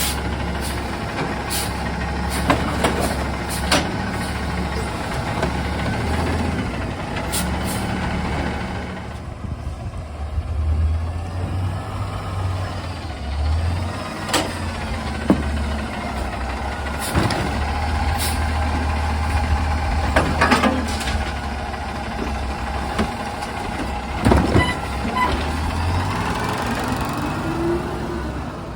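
Garbage truck's diesel engine running with a steady low drone, broken by sharp knocks and bangs every few seconds.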